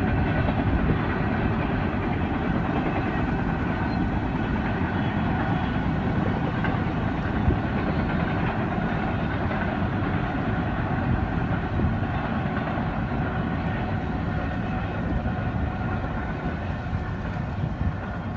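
A freight train rolling past on the rails, its cars making a steady rumble that eases slightly near the end.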